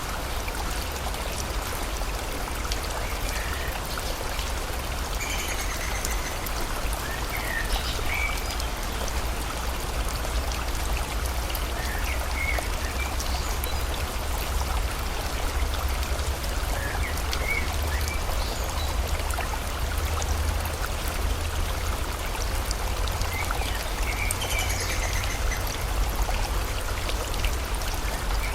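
Steady rush of a flowing stream with rain falling, and scattered short bird chirps throughout.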